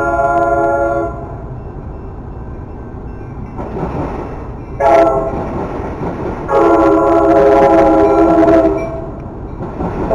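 Locomotive air horn sounding a chord in repeated blasts: a long blast ends about a second in, a short toot comes around five seconds, then a long blast of about two seconds, and another begins at the very end. Between the blasts the rumble of the passing train rises.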